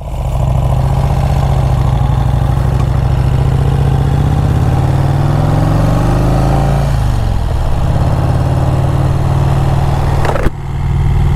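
1951 Vincent Rapide's V-twin engine running on the road. About halfway through its pitch climbs as it accelerates, then drops back and runs steadily. Near the end there is a brief downward swish and a short dip in level.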